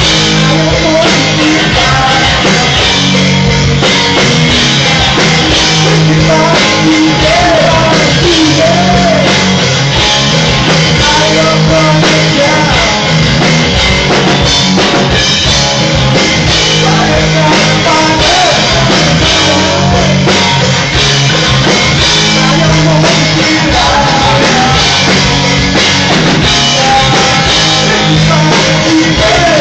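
Rock band playing loudly with drum kit, electric guitar and a voice singing.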